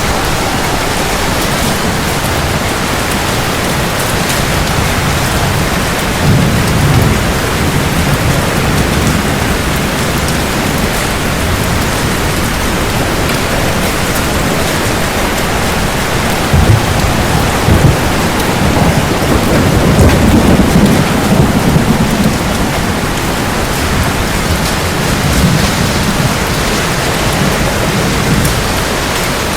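Steady heavy rain with rolling thunder: low rumbles swell about six seconds in and again from about sixteen seconds, the loudest around twenty seconds in.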